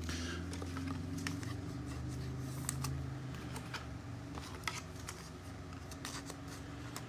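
Trading cards being handled and flipped through, a scatter of short clicks and slides as the cards rub and tap against each other, over a low steady hum.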